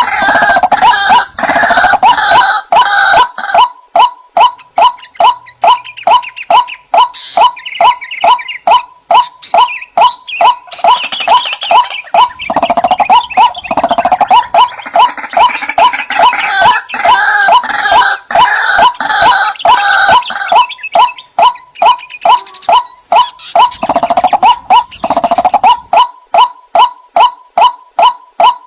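White-breasted waterhens calling: one monotonous note repeated about two to three times a second, with bouts of harsher, higher croaking calls over it near the start, around the middle and again near the end.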